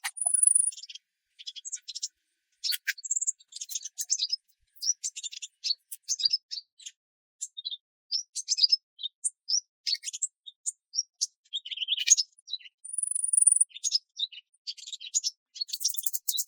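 Wild birds chirping and calling: many quick high chirps and short trills, with a thin high whistle right at the start and another about thirteen seconds in.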